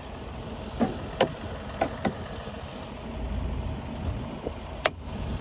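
Tractor engine idling steadily, with a handful of sharp knocks and scrapes as manure is cleaned off the spreader's chute, the loudest near the end.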